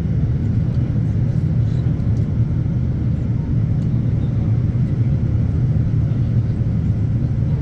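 Steady low rumble of a Boeing 787-9 Dreamliner in flight, as heard from inside the passenger cabin: engine and airflow noise.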